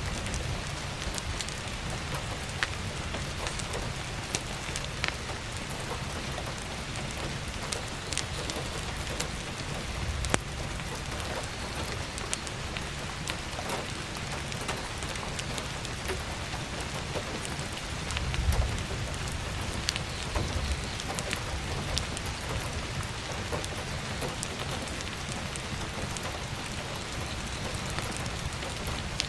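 Heavy rain pattering steadily on a roof skylight, with scattered sharp crackles from burning firewood. There is a brief low rumble about eighteen seconds in.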